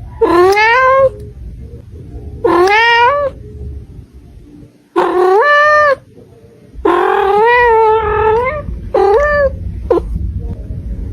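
A domestic cat yowling in a series of drawn-out calls that rise in pitch. There are about five calls, the longest a little before the middle of the second half, and a short one near the end.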